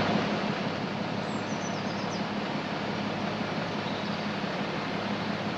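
A train running past, a steady noise with a low, even hum throughout. A bird chirps faintly a couple of times between one and two seconds in.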